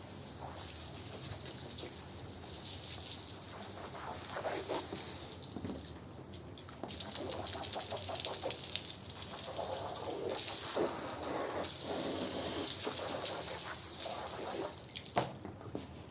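Water gushing and splashing onto a carpet being washed, rising and falling unevenly, then cutting off suddenly near the end.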